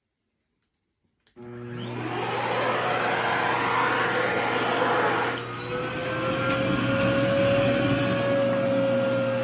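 A vacuum cleaner switches on about a second in, its motor whine rising as it spins up and then running steadily. About five seconds in, its level dips briefly and its pitch shifts slightly.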